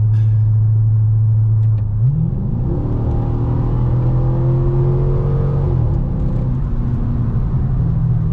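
Exhaust of a 2006 Dodge Charger R/T's 5.7-litre Hemi V8 with a muffler delete, heard from inside the cabin: a steady drone, then about two seconds in the engine note jumps up as the car is put under hard acceleration, holds for about four seconds and drops back at a gear change, then climbs again near the end.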